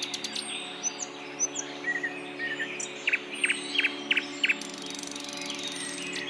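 Several wild birds chirping and whistling together in a morning chorus: quick high slides and, in the middle, a run of about six sharp notes. A high buzzing trill comes in near the end, over a steady low hum.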